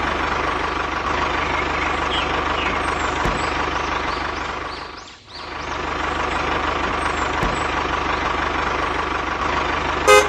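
Truck engine running steadily, fading down and back up about halfway through. Two short horn toots at the very end.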